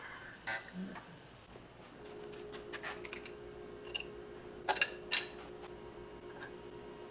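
Hand tools clinking and tapping on iron engine parts, with two sharp metallic clanks about five seconds in. A faint steady hum runs under it from about two seconds in.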